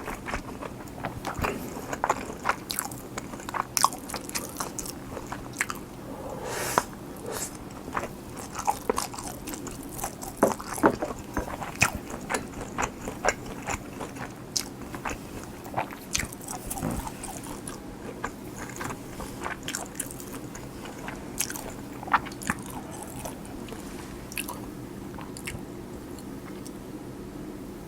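Close-miked eating of kimchi fried rice: chewing and biting with crunching and many sharp mouth clicks, thinning out toward the end.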